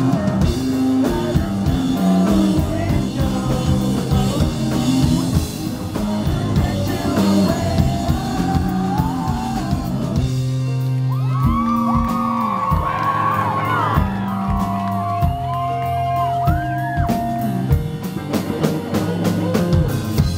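Live rock band playing a song with vocals, guitar and drums. About halfway through the dense full-band sound thins to a sparser passage with a long held note, and the fuller playing comes back near the end.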